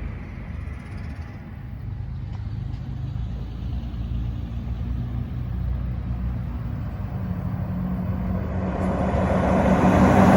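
Garbage truck engine running, its low hum growing louder over the last few seconds as the truck draws nearer.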